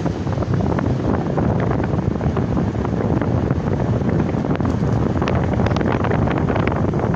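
Strong wind buffeting the microphone in stormy weather, a dense rumbling rush scattered with many small sharp ticks that grow more distinct near the end.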